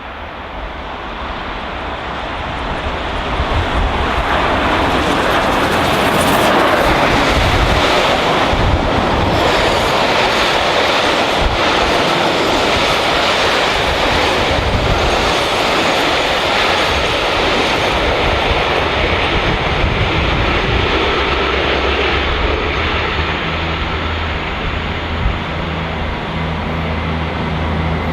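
A train passing close by: a broad rumble that grows louder over the first few seconds, then holds steady. A steady low hum sets in near the end.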